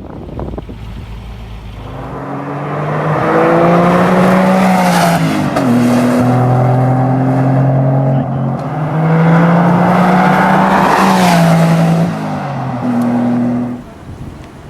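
A car engine accelerating: its pitch climbs, drops sharply, holds, climbs again and drops a second time, then the sound fades out near the end.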